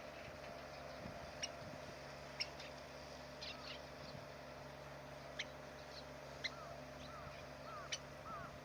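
Bird calls: short, sharp high chip notes about once a second, and a quick run of small arched notes near the end, over a faint steady hum.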